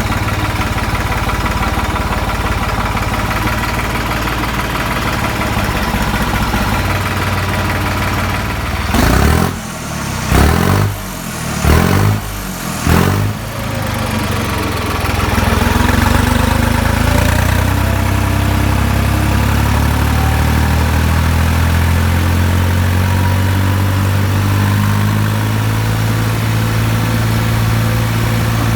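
New Holland 3630 tractor's three-cylinder diesel engine idling, blipped four times in quick succession about a third of the way in with rising and falling revs, then settling back to a steady idle.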